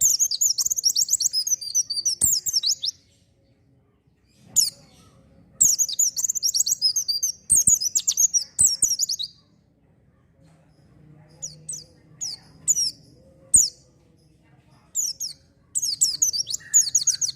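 A white-eye (pleci) singing lively: fast, high twittering phrases of a few seconds each, at the start, from about five and a half seconds in, and near the end, with single short chirps in between.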